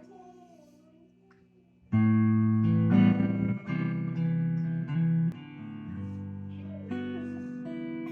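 A guitar being played: after a quiet start, loud ringing notes and chords come in suddenly about two seconds in and change every second or so.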